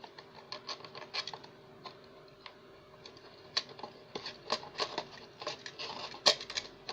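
Light, irregular clicks and taps of small hard parts being handled, a few louder knocks among them, most sharply about six seconds in.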